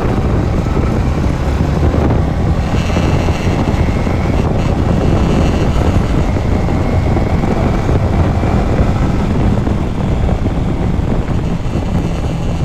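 Yamaha MT-15's single-cylinder engine running steadily under way, with wind on the microphone. The owner is showing a 'kirkir' rattle from the instrument cluster that appears when the engine reaches about 5,000–6,000 rpm; the service centre could not find its cause.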